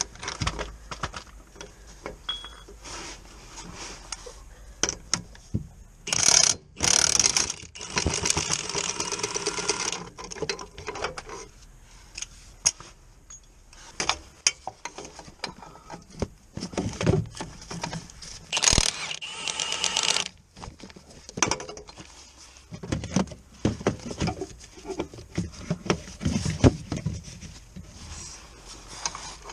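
Car repair work with hand tools on metal: irregular ratchet clicks and metal clinks and knocks, with louder spells of a second or more about six to ten seconds in and again near nineteen seconds.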